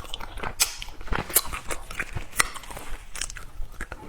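Close-miked crunching and chewing of small jam-filled candies, with irregular sharp crunches.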